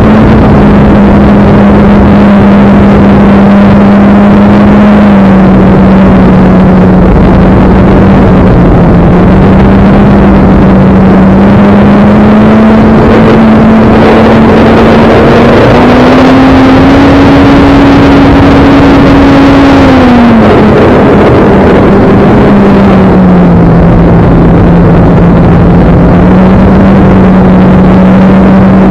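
Electric motor and propeller of a Carbon Cub S2 RC airplane running in flight, a loud steady drone over a constant rushing noise. Its pitch rises for a few seconds about two thirds of the way in, then falls back below where it started before settling again, as the throttle is changed.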